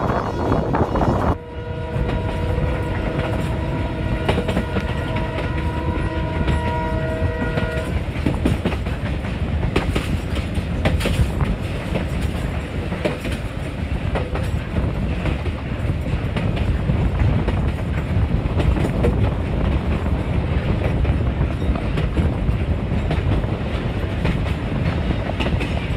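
A passenger train's horn sounds as a steady multi-tone chord for about six seconds, beginning a second or so in. Under it and afterwards is the continuous rumble of the carriages running along the track, with the wheels clicking over rail joints, heard from an open carriage window.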